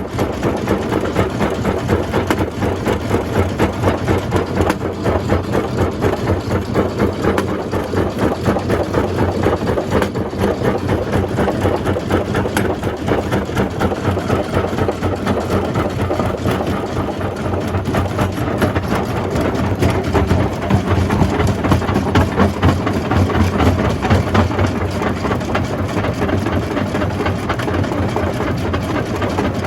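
Jaw crusher running steadily at a quarry plant: a constant low machine drone under a dense, fast clatter of rock being crushed.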